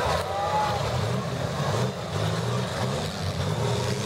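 Engines of several compact demolition derby cars revving up and down together.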